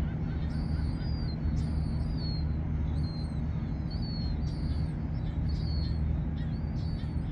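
A small bird chirping over and over, short high arching chirps roughly once a second, over a steady low engine hum.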